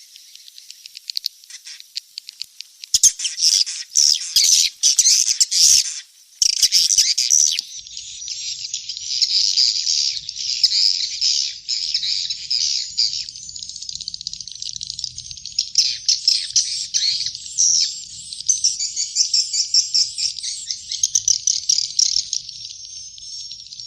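Swiftlet chicks' calls: dense, high-pitched, rapid chittering and twittering. It starts faintly, comes in loud bursts from about three seconds in, then runs on as a continuous twitter. It is a recorded call track of the kind played to lure swiftlets into nesting houses.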